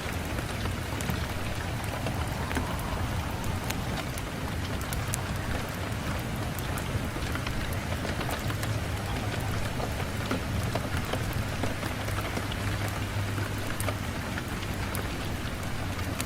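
Steady rain on a window: an even hiss with scattered sharp ticks of drops and a low rumble underneath.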